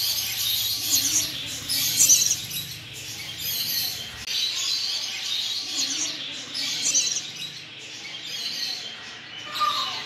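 Birds chirping in a home aviary: scattered short, high chirps in several bursts.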